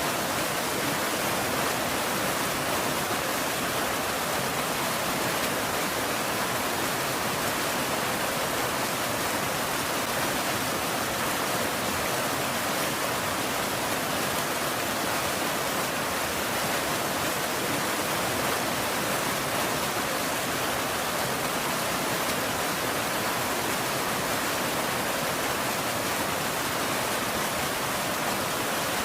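Steady rain falling, an even unbroken hiss with no thunder or changes.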